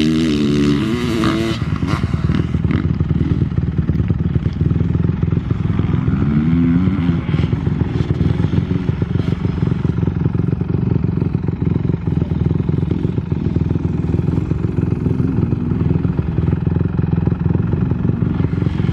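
Dirt bike engines racing, a Honda CRF450R four-stroke and a Kawasaki KX250 two-stroke, running hard with the revs rising and falling, including a rise in pitch at the start and another about six seconds in.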